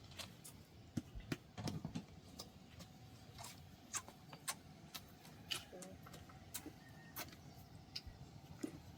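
Irregular light clicks and knocks, a few each second, with a short cluster of heavier knocks about two seconds in, over a faint hiss.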